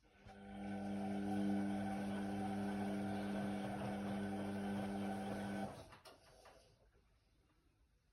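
Indesit WIDL 106 washer-dryer giving a steady pitched hum with a rushing noise over it, building up over about a second and cutting off abruptly after about five and a half seconds.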